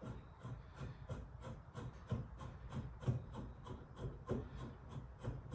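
Hand rivet gun and pop rivet being handled and worked: a run of light, irregular clicks and rubbing, about three or four a second.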